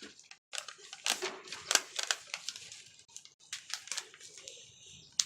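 A sheet of printer paper being handled and folded into a paper airplane, with irregular crinkles and rustles.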